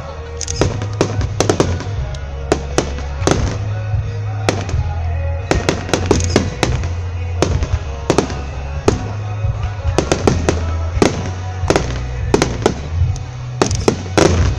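Aerial firework shells bursting in quick, irregular succession: many sharp bangs, several a second at times, with a dense cluster near the end. Festival background music with a steady low bass runs underneath.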